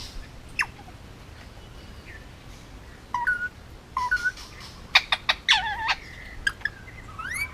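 Indian ringneck parakeet calling in scattered short bursts: a falling whistle under a second in, short chirps about three and four seconds in, a quick run of sharp chattering calls around five seconds in, and a rising whistle near the end.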